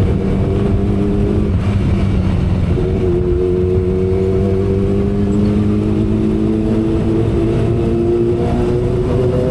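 Inline-four engine of a 2012 Kawasaki Ninja ZX-10R running steadily at expressway cruising speed, over a low rush of wind and road noise. Its note changes slightly about two and a half seconds in.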